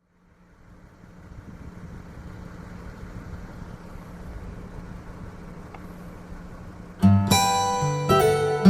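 Steady low background noise with a faint hum fades in for about seven seconds. Then acoustic guitar background music starts suddenly with loud strummed chords.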